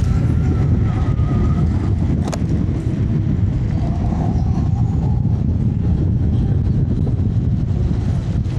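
Steady wind rumble on an action camera's microphone while riding an electric scooter, with a faint whine and a single sharp click about two seconds in.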